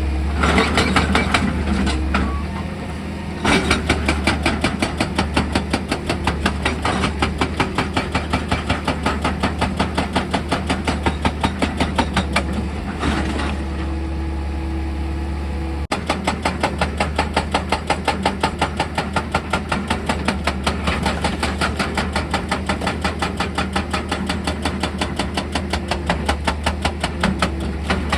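Excavator engine humming steadily under a percussive rock drill that hammers in rapid repeated blows, about three a second. The blows pause briefly twice.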